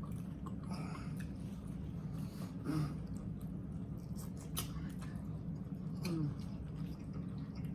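People chewing food, with scattered soft mouth clicks and smacks over a steady low hum.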